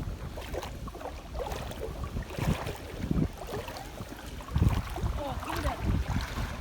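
Canoe on a river, moving against the current: water sloshing against the hull and paddles, with irregular low thumps of wind buffeting the microphone.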